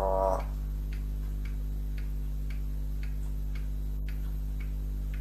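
A clock ticking steadily, about two ticks a second, over a constant low electrical hum. At the very start, the end of a short pitched, voice-like call.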